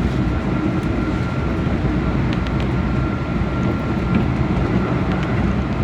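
Keihan electric train running at speed, heard from the driver's cab: a steady low rumble of wheels on rail, with a thin steady whine and scattered light clicks over it.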